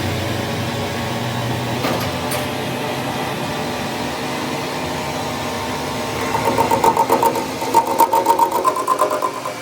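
Machinery running with a steady, even hum, with a couple of light clicks about two seconds in. From about six seconds in, a higher whine joins, pulsing quickly and loudly.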